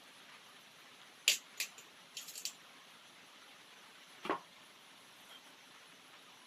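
A few sharp clicks and taps of small hard objects being handled: two single clicks, a quick rattle of three or four, then one heavier knock, over a steady faint hiss.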